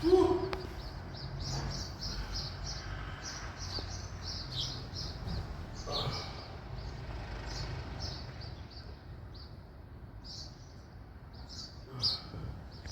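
Small birds chirping, a steady run of short, high chirps over a low background hum, with one brief louder tone right at the start.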